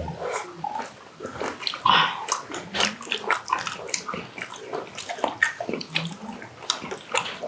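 Eating at a table: scattered small clicks and knocks of chopsticks and dishes as pork trotters are picked at and eaten.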